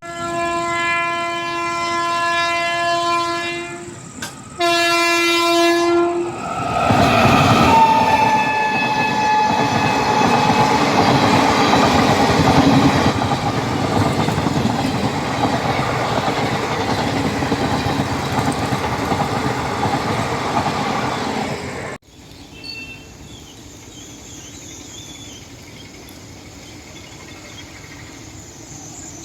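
Electric locomotive air horn sounding two blasts, a long one and then a shorter one, followed by a passenger train rushing past with its wheels clattering over the rails. The rush cuts off abruptly about two-thirds of the way in, leaving faint background noise.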